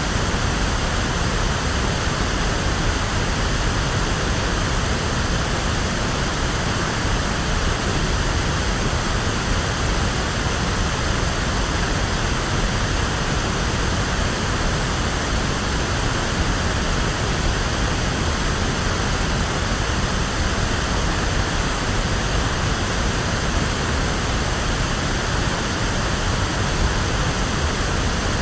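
Electronically generated pink noise: a steady, even hiss with strong low end, like rushing water, unchanging throughout.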